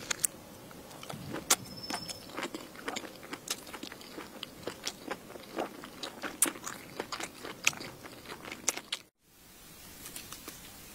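Someone biting and chewing crunchy food close to the microphone: irregular sharp crunches, several a second. About nine seconds in the sound drops out briefly and gives way to a faint hiss.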